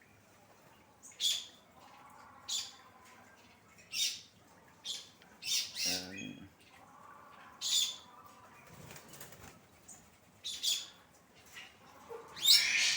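Aviary birds making short, sharp high-pitched sounds, repeated irregularly about once a second, the loudest near the end.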